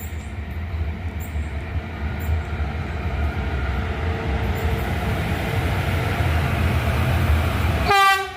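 An SNCB class 19 electric locomotive and its train running past, the rumble growing louder, then a short blast of its typhoon horn near the end that cuts off suddenly.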